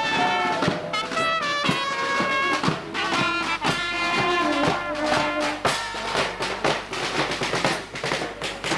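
Brass band music: trumpets and other brass playing a melody over a steady bass drum and percussion beat.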